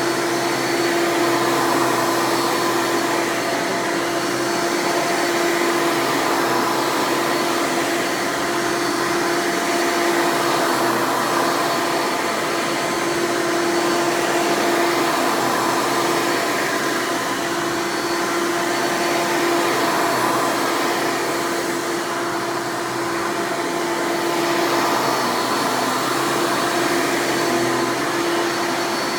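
Hoover Legacy Dirt Finder upright vacuum's 7.2-amp direct-air motor running steadily with a constant hum. Its loudness swells and eases gently every few seconds. It runs smoothly.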